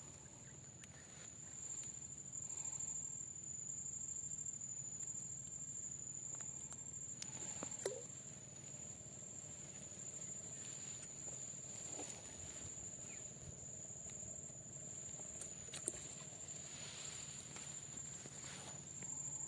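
Insects, crickets or similar, trilling in one steady high-pitched note, with a few faint scattered clicks and taps.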